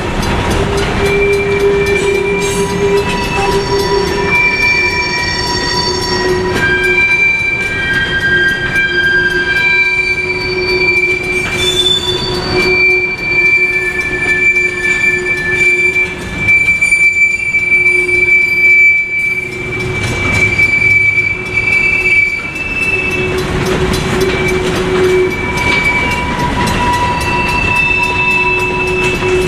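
Freight cars rolling past with their wheels squealing in several high, shifting tones that come and go, typical of wheel flanges grinding on a curve, over the low rumble of the train. The crossing's Safetran mechanical bell keeps ringing underneath.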